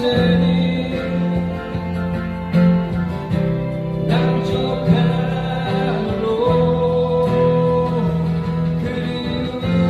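Live acoustic-guitar busking music: strummed acoustic guitars with a held melody line over them.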